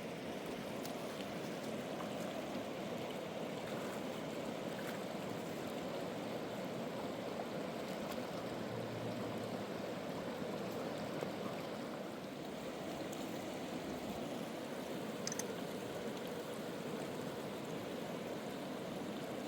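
Steady rush of flowing water, a stream or river running.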